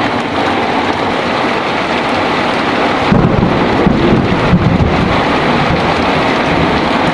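Heavy rain pouring steadily, with a low rumble of thunder rolling in about three seconds in and lasting a couple of seconds.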